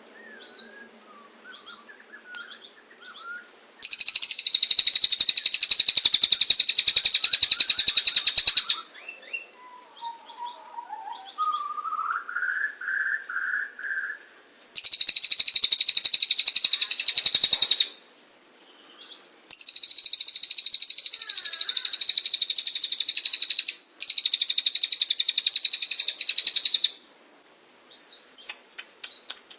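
Caged songbirds, a canary and a cililin, singing rapid high 'roll tembak' trills. There are several long, very fast trills of a few seconds each, with softer scattered chirps between them and a short, lower, rising trill about twelve seconds in.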